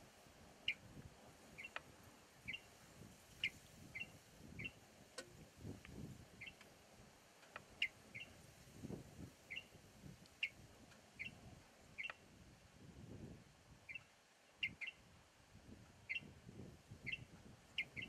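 Faint, short, high bird chirps, one or two a second at irregular intervals, over a low, shifting rumble.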